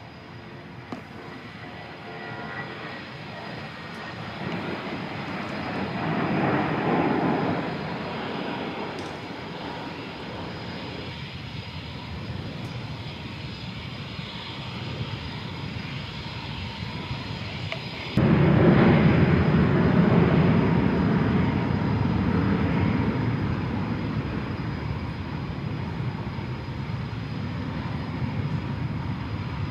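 Embraer KC-390 jet transport's twin IAE V2500 turbofan engines running, a steady rushing noise with a faint whine. It swells about six seconds in and jumps suddenly louder about eighteen seconds in.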